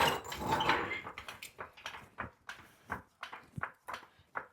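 Metal gear being handled and shifted on a shop floor: a loud scraping rattle in the first second, then a run of short irregular knocks and clicks, about two to three a second.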